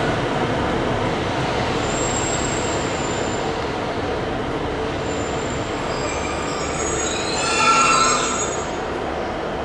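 A train moving through the station with a steady running rumble, its wheels squealing in thin high tones that come and go and are loudest a little before eight seconds in.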